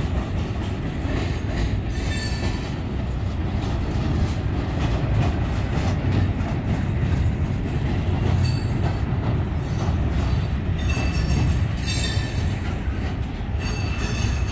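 A Norfolk Southern freight train's cars rolling past close by: a steady low rumble of wheels on rail, with brief high-pitched wheel squeals several times.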